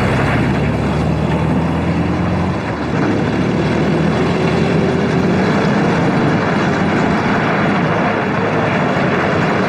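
A moving vehicle running steadily: a dense, even engine and travel noise with a low hum.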